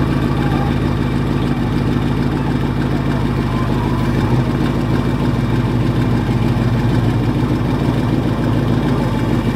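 Engine idling steadily with an even low hum, no revving.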